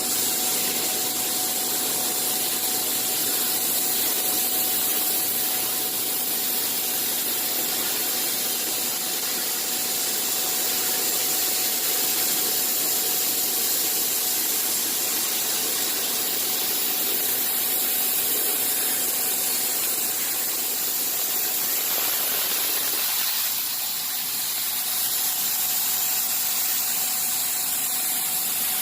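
Bystronic CNC machine running: a steady hiss with a faint steady high whine, its lower part thinning out about 23 seconds in.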